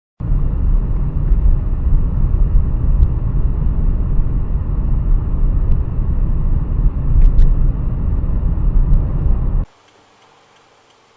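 A moving road vehicle's steady low rumble of engine and road noise, with a few faint ticks, cutting off suddenly near the end.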